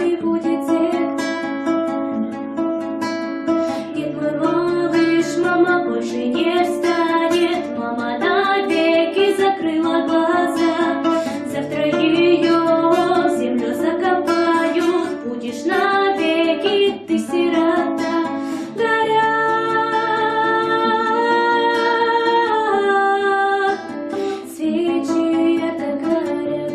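Music: a plucked acoustic guitar playing a melodic tune with some held notes.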